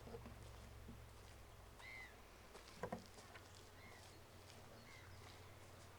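Faint calls of birds over a lake: a few short, arched single notes, the clearest about two seconds in and another near the end. A brief knock comes about three seconds in, over a faint low hum.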